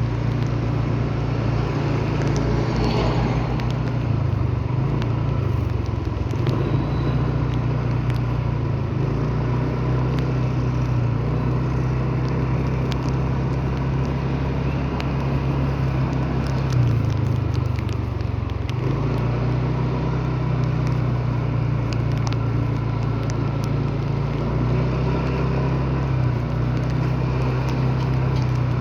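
Motor vehicle running, a steady low drone that shifts slightly in pitch now and then, with scattered faint ticks and crackles over it.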